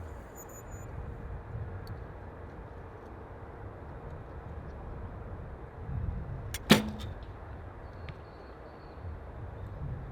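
A single shot from a recurve bow: a sharp snap of the string on release about two-thirds through, with a brief low hum of the string after it. A steady rumble of wind on the microphone runs underneath.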